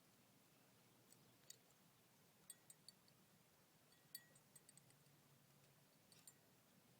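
Near silence, with a dozen or so faint, sharp, high clicks scattered in small clusters through the middle.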